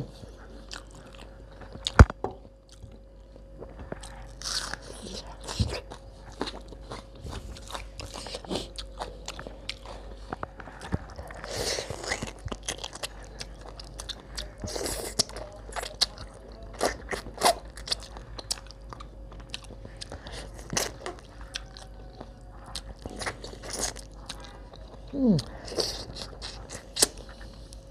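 Close-miked eating sounds of a person chewing a rice-and-curry meal eaten by hand: a steady string of short wet clicks and smacks. One louder knock comes about two seconds in, over a faint steady hum.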